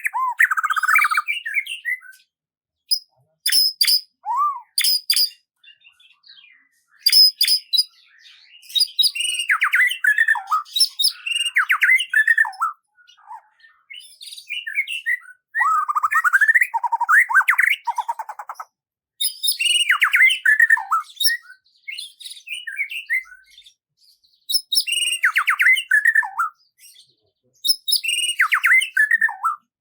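A songbird singing: short, varied phrases of quick chirps, trills and sharp notes, separated by pauses of about a second.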